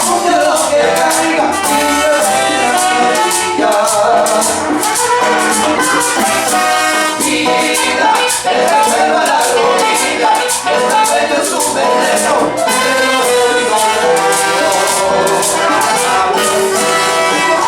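A Latin dance band playing live, with a voice singing over a steady, even percussion beat.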